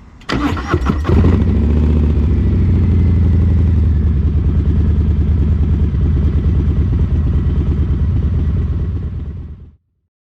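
Harley-Davidson Fat Boy 107's Milwaukee-Eight 107 V-twin being started through Vance & Hines Eliminator 300 slip-on mufflers: a brief crank, then the engine catches about a second in and idles with a loud, steady, pulsing low rumble. The sound cuts off abruptly near the end.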